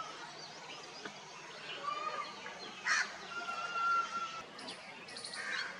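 Several wild birds calling in the trees: thin whistled notes each held for about half a second, with a loud harsh call about three seconds in and another near the end.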